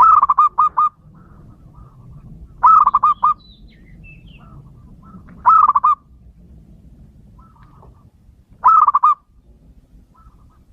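Male zebra dove cooing: four phrases about three seconds apart, each a quick run of repeated notes.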